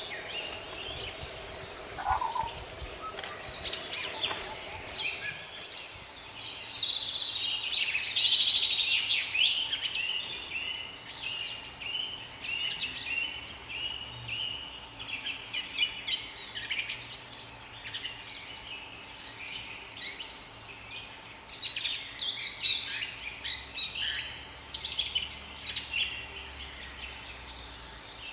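Chorus of many small songbirds chirping and trilling over one another, busiest and loudest about eight seconds in.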